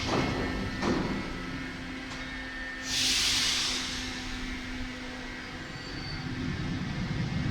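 Paris Métro line 3bis train (MF 67) at the platform: two knocks in the first second and a sharp hiss of released air about three seconds in, over a steady hum. A low rumble builds near the end.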